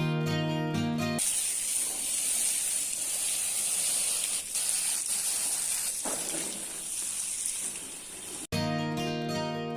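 Water jet spraying with a steady hiss while washing a scooter. Background guitar music stops about a second in and comes back after a sudden cut near the end.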